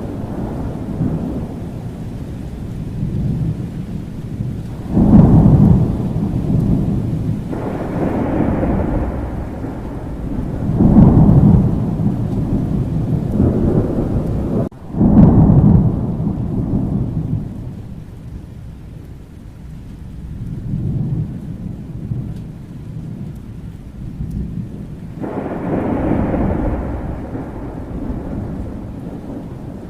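Thunderstorm: deep rolling thunder rumbles over steady rain. The loudest peals come about 5, 11 and 15 seconds in, and another rumble swells up near the end.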